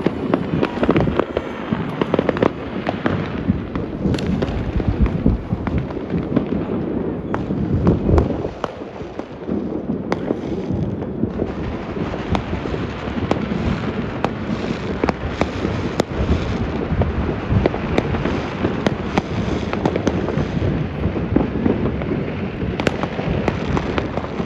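Continuous distant fireworks across a city on New Year's Eve: a dense barrage of many overlapping bangs, pops and crackles over a steady rumble, with no pauses.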